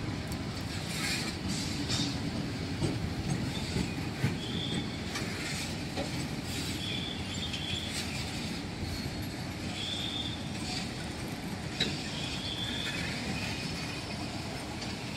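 Fully loaded BOXN covered freight wagons rolling past: a steady rumble of steel wheels on rail, with irregular clicks from the rail joints and short, high wheel squeals every second or two.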